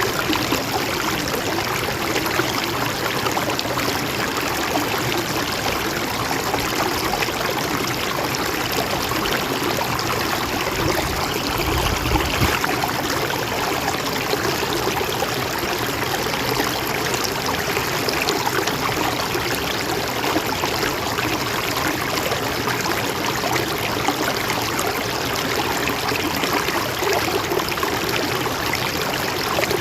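A mountain stream running and trickling over rocks, a steady rush of water, with a short low thump about twelve seconds in.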